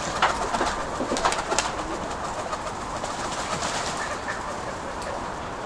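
Nikolaev pigeons cooing softly, with a few sharp clicks or flutters in the first couple of seconds.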